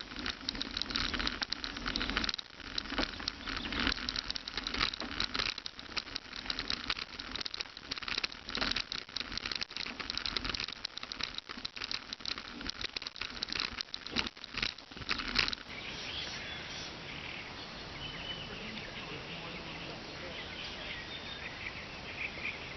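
A bicycle being ridden over bumpy ground, with a dense continuous clatter and rattle. After about fifteen seconds the rattle stops suddenly, leaving a steady hiss with faint chirring of insects.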